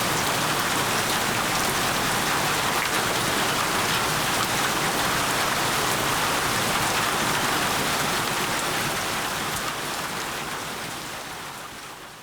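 Steady rain falling, a dense even hiss with scattered drop ticks, fading out over the last few seconds.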